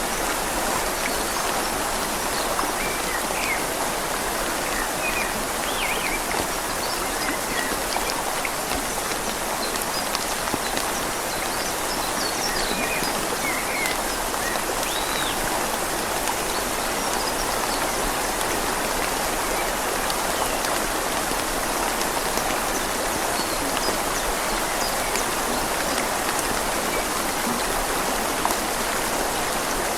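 Steady rain falling on leaves over a flowing river: an even, unbroken hiss of water.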